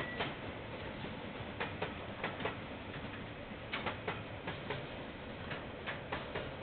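Freight train wagons rolling past at a distance, their wheels clicking over rail joints in pairs and clusters every half second or so, over a steady low rumble.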